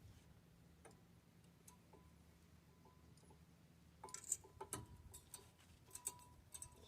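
Faint, sharp metallic clicks and taps of brake pads and their clips being fitted into a disc brake caliper bracket, starting about four seconds in after a few quiet seconds.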